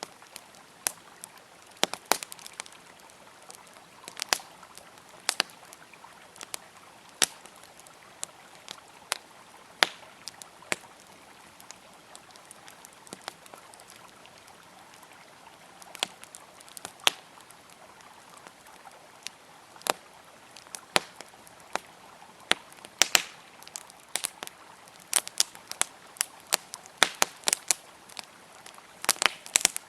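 Wood campfire crackling with irregular sharp pops and snaps, which come thicker near the end, over the steady rush of a flowing river.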